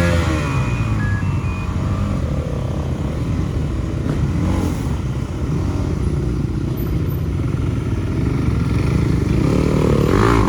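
Motorcycle engines running steadily, with the engine note swelling up and back down at the start and again near the end.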